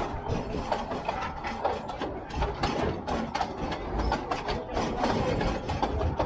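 Narrow-gauge railway carriage rattling and clattering as it rolls along the track: a steady run of irregular clicks and knocks over a low rumble.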